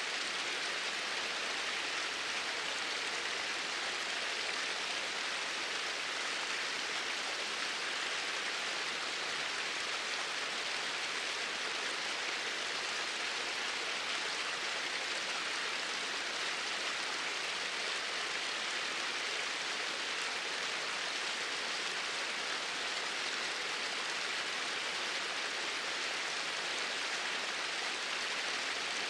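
Flowing water of a stream, a steady even rush with no breaks or changes.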